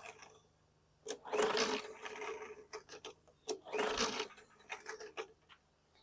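Recoil starter cord of a Briggs & Stratton 450E push-mower engine pulled twice, about a second each, the engine cranking over without firing. It pulls over freely, like no compression.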